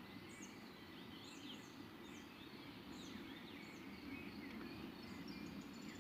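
Faint birdsong: small birds giving short high chirps over and over, with softer twittering calls among them, over a low steady background hiss.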